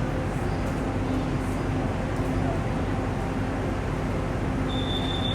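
Steady rumble and hiss of an EMU3000 electric express train running into a station platform. Near the end a high, steady squeal starts and holds.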